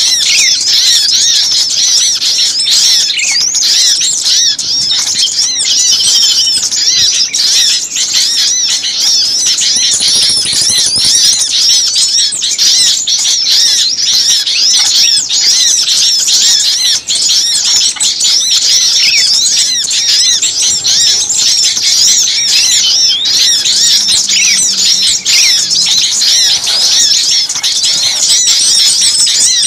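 Many small songbirds chirping and twittering at once in a dense, unbroken, high-pitched chorus. It is a bird-lure recording of agitated small birds, played to draw small birds in.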